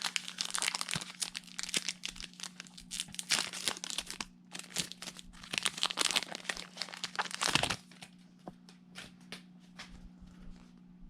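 Foil wrapper of a Pokémon card booster pack being torn open and crinkled, a dense crackling for about eight seconds, then quieter scattered rustles and clicks near the end.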